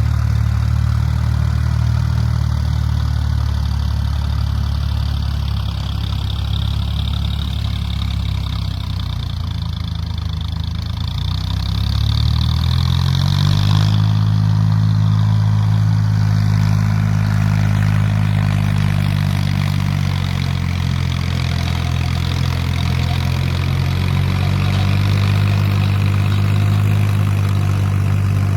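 Mahindra 265 tractor's diesel engine running at low speed, then revved up to a higher speed about halfway through and held there, easing back slightly a few seconds later.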